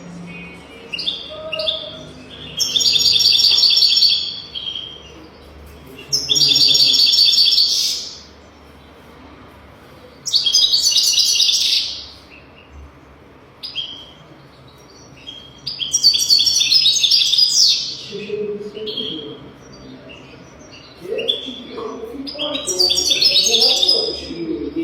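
European goldfinch singing: five rapid, twittering song phrases of about two seconds each, a few seconds apart, with short single chirps in between.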